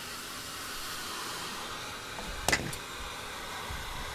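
Steady hiss with a sharp knock about two and a half seconds in, followed by a lighter click.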